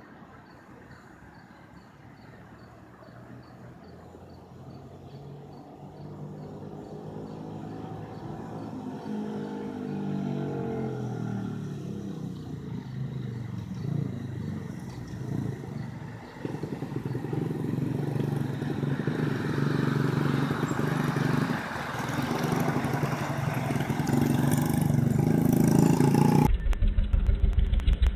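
A motor vehicle engine grows steadily louder as it approaches, its pitch sliding up and down. Near the end it turns abruptly into a loud, rapid, even pulsing.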